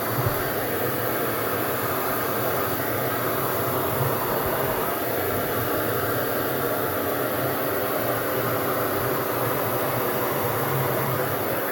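Hair dryer running steadily: a continuous rush of air over a low motor hum.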